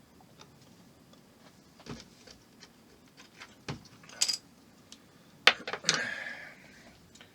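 Small plastic model-kit parts and tools being handled on a workbench: scattered light clicks and taps, a sharper knock about five and a half seconds in, then a brief rustle.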